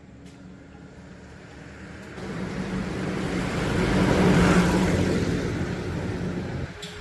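A car running, growing louder to a peak about four and a half seconds in and then fading, as when it drives past or revs and eases off.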